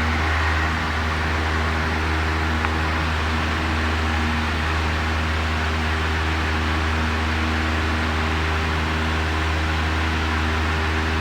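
A Cessna 172's piston engine and propeller running steadily during the climb-out after takeoff, a constant drone with a strong low hum and a hiss of air.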